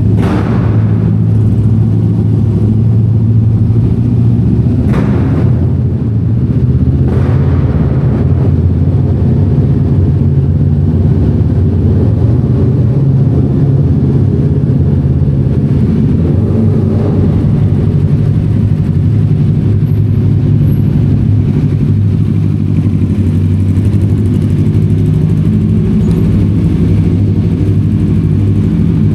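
Motorbike engine running steadily at low revs, with a few brief sharp knocks near the start and again about five and seven seconds in.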